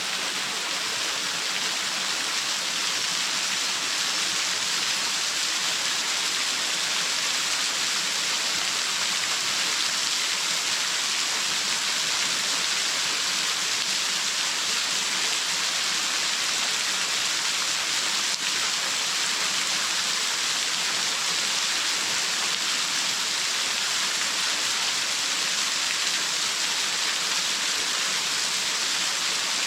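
Waterfall splashing down, a steady even rush of falling water with no breaks.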